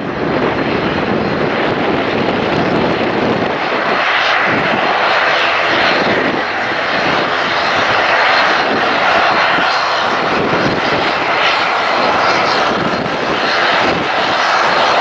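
Jet airliner's engines running loud and steady close by. After a few seconds the low rumble gives way to a louder, higher rushing sound.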